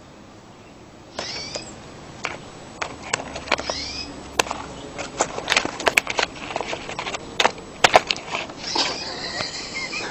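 A bird giving a few short gliding calls, mixed with many sharp clicks and taps.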